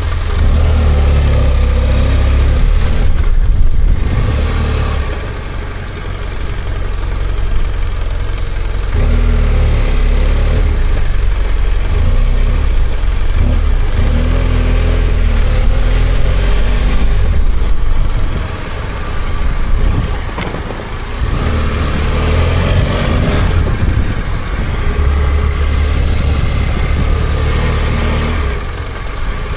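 BMW F800GS motorcycle's parallel-twin engine running on the road, its revs rising and falling as it pulls and eases off a few times.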